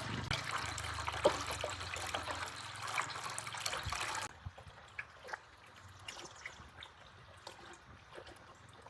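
Liquid pouring and trickling for about four seconds, then stopping abruptly, leaving only faint scattered clicks.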